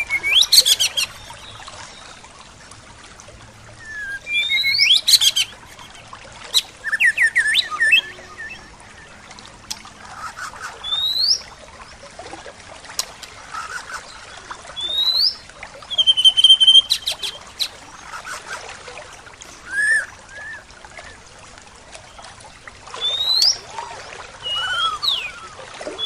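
Songbirds singing short chirping phrases every two to three seconds, with quick rising and falling whistles, over a faint steady hiss.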